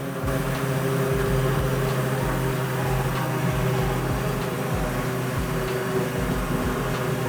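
Turboprop engine of a Super Seawind seaplane running steadily: an even mechanical hum made of several steady tones over a low, rhythmic pulsing beat.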